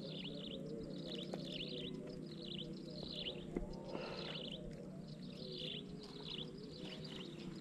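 Birds chirping in short repeated phrases of falling notes, about one phrase a second, over a steady low hum.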